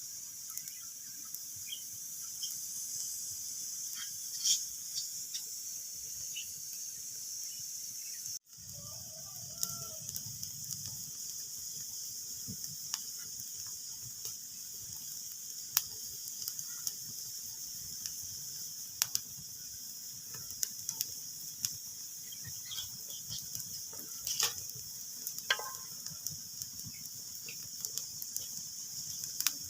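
Wood fire crackling in a fireplace: irregular sharp pops and snaps of varying strength over a steady hiss. The sound cuts out for an instant about a third of the way through.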